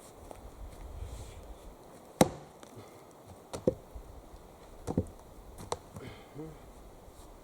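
Axe striking wood: four sharp chops about a second apart, the first the loudest.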